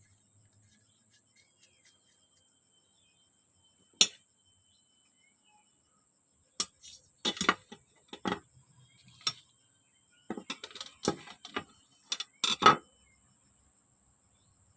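Irregular clicks and knocks of small metal parts being handled, as on a brush-cutter carburettor being worked on. One sharp click comes about four seconds in, then a busy run of clicks and knocks from about six and a half to thirteen seconds.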